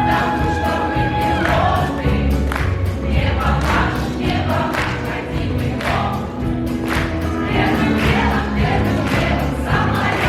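A choir singing a song over an instrumental accompaniment with strong bass notes and a steady beat.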